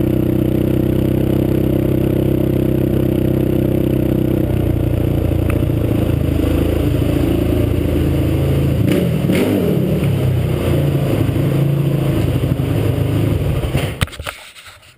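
Honda TRX450R quad's Janssen-built four-stroke single-cylinder engine running through a Moto Works exhaust. It holds a steady note at first, then its pitch shifts and wavers, rising and falling once partway through. The sound drops away sharply near the end.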